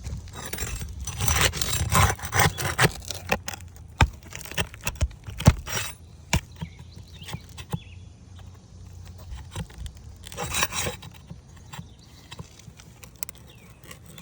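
A metal shingle scraper scraping and prying under asphalt roof shingles to unseal them and reach the nails. Bursts of scraping come near the start and again near the end, with sharp clicks and knocks of the tool in between.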